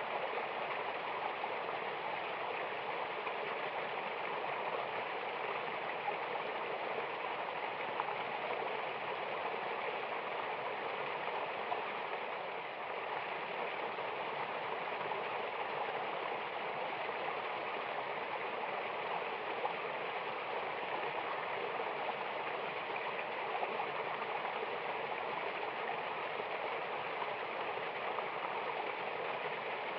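Mountain waterfall and stream water rushing in a steady, unbroken wash of white noise.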